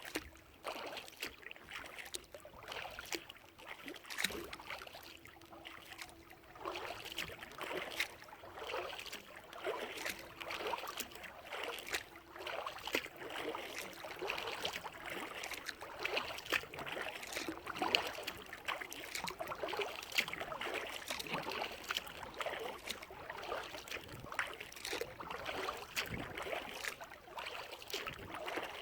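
Kayak paddle dipping into and pulling through lake water, splashing and dripping in a steady rhythm of strokes.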